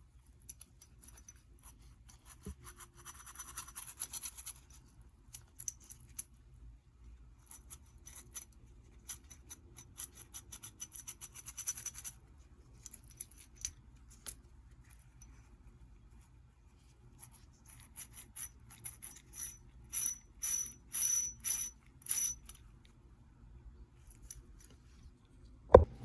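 Metal tools and small steel bicycle bottom-bracket parts clinking and scraping in irregular bursts, with a run of about five evenly spaced metallic strokes near the end.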